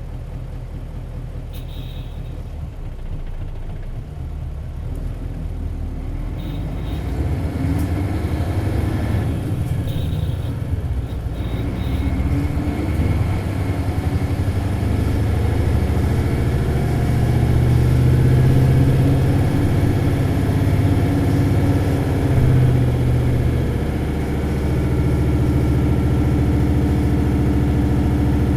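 Isuzu Cubic bus's 8PE1-S V8 diesel running at low revs, then pulling hard from about six seconds in, its note climbing and growing louder through the gears. The note dips briefly about three quarters through, then holds steady at high revs.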